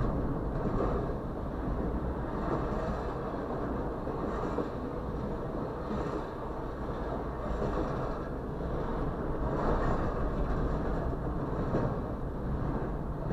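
Berkshire and Eastern double-stack intermodal freight train rolling past close by: a steady noise of wheels on rail and cars going by.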